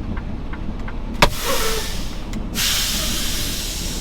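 Semi truck's air brake system releasing air over the idling diesel engine: a sharp click followed by a short hiss, then a longer, louder rush of air about two and a half seconds in.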